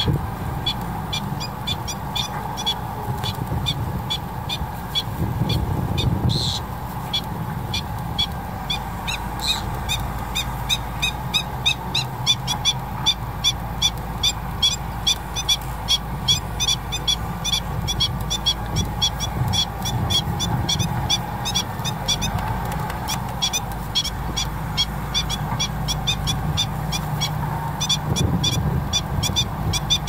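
A bird calling a long, even series of short, sharp notes, about two or three a second, over a low steady rumble.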